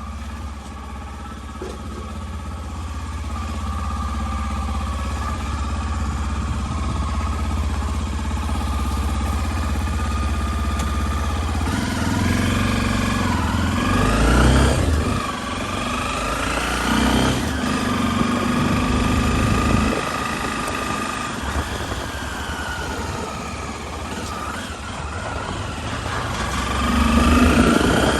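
Motorcycle engine running, its pitch rising and falling several times as it is revved and ridden through the gears.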